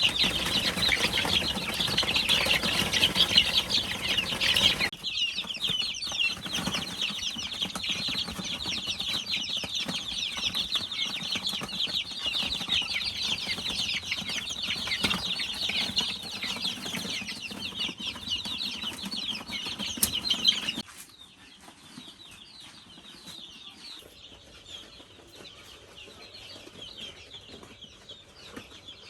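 A crowd of young poultry chicks peeping continuously, many overlapping high calls. The sound shifts abruptly about five seconds in and again past twenty seconds, after which it is quieter.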